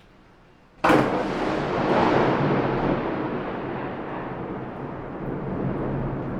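Thunderclap: a sudden sharp crack about a second in, then a long rumble that slowly fades.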